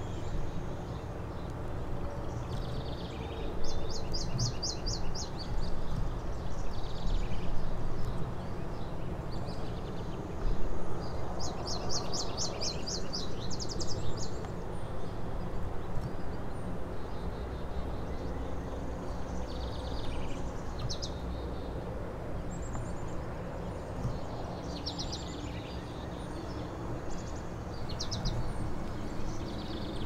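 Birds calling in short bursts of rapid, repeated chattering notes every few seconds, over a steady low background rumble of outdoor noise.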